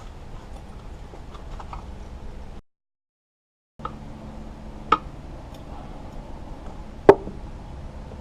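A few sharp clicks and light knocks of small metal parts being handled during engine assembly, the loudest about seven seconds in, over a steady low hum. The sound cuts out completely for about a second near the middle.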